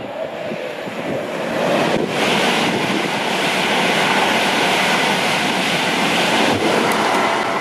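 Passenger train passing through at speed: the rush of wheels on rail builds over the first two seconds and then holds steady and loud. Wind buffets the microphone at the start.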